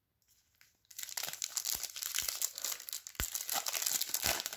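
Foil wrapper of a trading-card pack crinkling and tearing as it is opened, starting about a second in, with a few sharp ticks through it.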